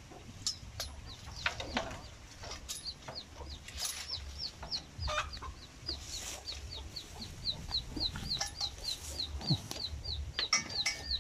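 A small bird peeping steadily: a long run of short, high, downslurred notes, about three or four a second. Over it come scattered rustles and sharp clicks from a hook being poked through dense weeds.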